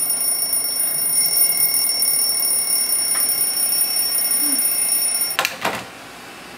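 A steady, high-pitched electronic ringing tone sounds continuously, then cuts off with a couple of clicks about five and a half seconds in, leaving a quieter background hum.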